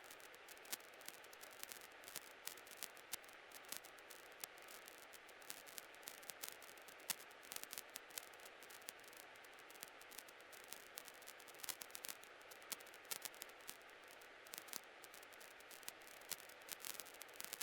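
Faint static hiss on the cockpit intercom and radio audio feed, broken by frequent small crackling clicks.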